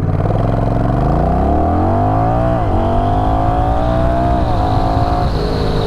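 Honda Rebel 1100 DCT's parallel-twin engine accelerating hard, its revs climbing through the gears with two quick upshifts by the dual-clutch gearbox, about two and a half and four and a half seconds in, then running steady near the end at around 70 mph.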